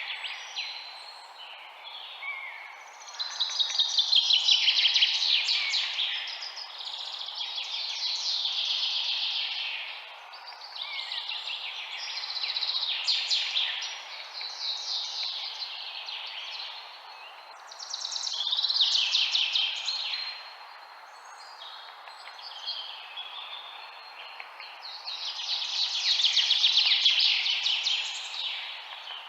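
Songbirds singing: fast, high trilling phrases a few seconds long, repeated every few seconds and rising and falling in loudness, over a steady background hiss.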